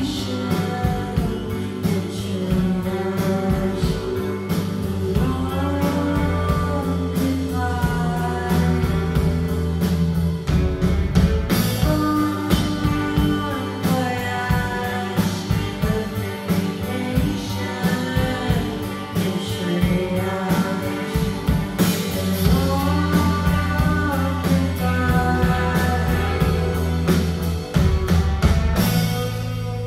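A rock band playing live, with sung vocals over guitar, bass and drums.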